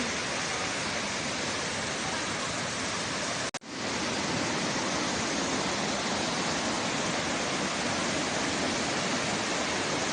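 Steady rushing of a waterfall. It cuts out for an instant about three and a half seconds in.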